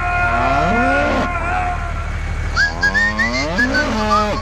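Cattle mooing: drawn-out calls that rise and fall in pitch, one about a second in and another near the end, over a steady low rumble.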